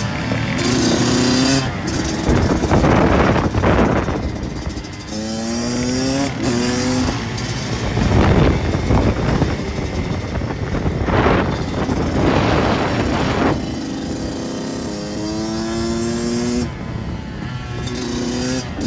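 Dirt bike engines revving hard again and again, the pitch climbing with each pull of the throttle, with a rushing noise between the revs.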